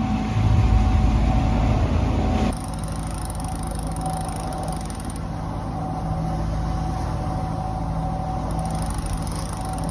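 One engine of a sailing catamaran running steadily under way, a constant drone. The sound drops abruptly to a slightly quieter, smoother drone about two and a half seconds in.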